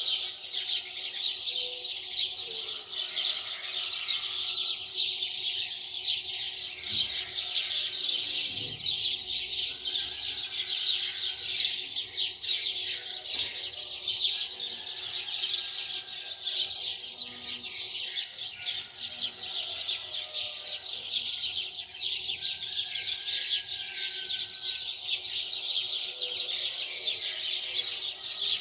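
Continuous dense, high-pitched chirping with no pauses, over a faint steady hum.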